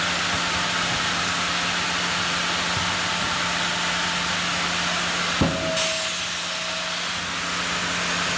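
Sawmill machinery running with a steady hiss and a low hum, and a sharp knock about five and a half seconds in.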